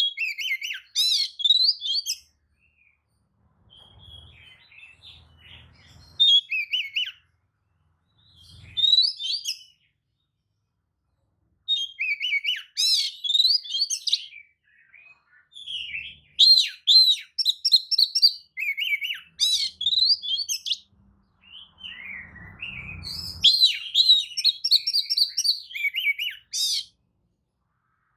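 Oriental magpie-robin singing, a lure song used to provoke other magpie-robins into answering. It comes in bursts of rapid, varied whistled and chirping notes, with short silent gaps between phrases.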